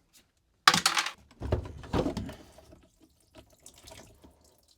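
Rusty water trapped inside the car's dashboard spilling out of a removed part in two splashing gushes about a second in, then dribbling.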